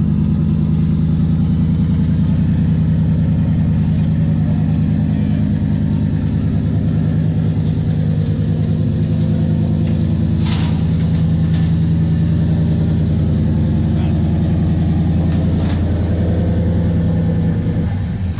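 Car engine idling steadily, deep and even at unchanging revs, with a short hiss about ten seconds in. The engine sound drops away just before the end.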